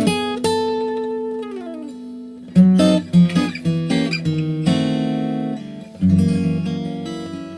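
Background music: acoustic guitar, strummed and picked chords that ring and fade, with some notes sliding in pitch.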